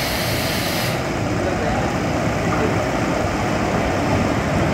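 Steady rumble of an approaching train, a WAP-1 electric locomotive hauling milk tank wagons, growing a little louder near the end. A high hiss cuts off about a second in.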